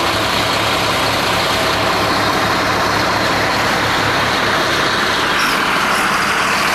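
Large truck engine running steadily at close range, a loud even rumble with a fast low pulse.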